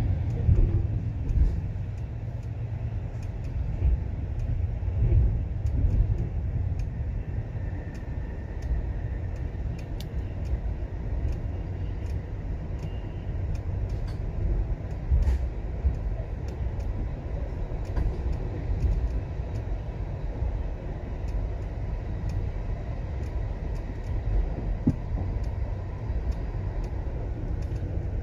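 Passenger train coach running at about 90–97 km/h, heard from inside: a steady low rumble of wheels on track, its level swelling and dipping, with scattered faint clicks.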